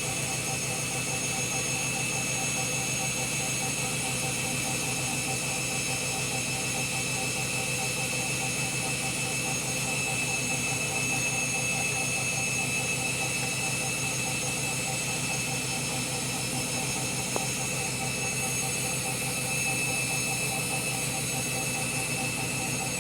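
Candy Grand'O Vita 7 kg washing machine in a long pre-wash spin: the drum turns steadily with a constant high motor whine over a low hum.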